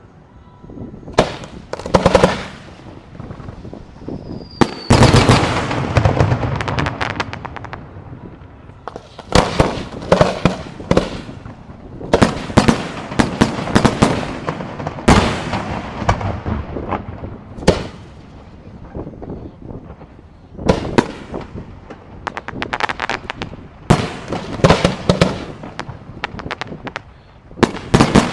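Fireworks display: aerial shells bursting in rapid, irregular volleys of sharp bangs, each trailing a rumbling echo, with short lulls between the volleys.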